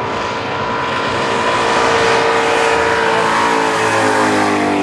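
Holden Commodore sedan's engine held at high revs while its rear tyres spin in a smoking powerskid; the pitch eases down slightly near the end.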